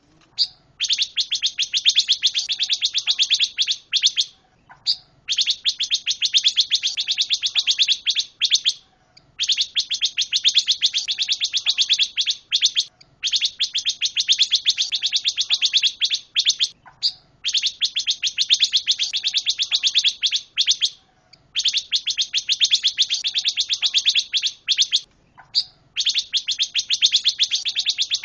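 Cage songbird of the kind Indonesian bird keepers call pancawarna, singing hard in bouts of very rapid repeated high notes. Each bout lasts a few seconds, with short breaks between, about seven bouts in all. Faint lower chirps sound in the gaps.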